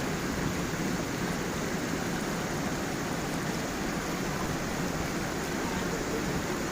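Small waterfall on a stream: water flowing and splashing in a steady, even rush.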